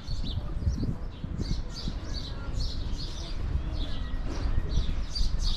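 Small birds chirping, short high chirps repeated two or three times a second, over a low rumble.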